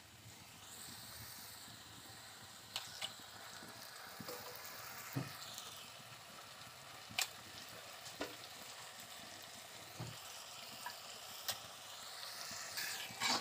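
Quiet, steady sizzle of onions and spice masala frying in oil in an iron wok as cut beef brain is added and stirred in. Several short, light knocks of the spatula against the pan are heard here and there.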